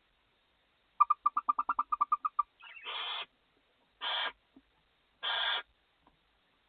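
Barn owls calling in a nest box: a quick run of about a dozen twittering chirps, about nine a second, then three harsh hissing screeches about a second apart.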